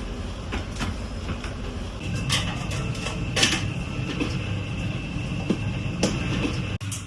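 Restaurant room ambience: a steady low hum with scattered light clinks and knocks of dishes and utensils, a few of them sharper.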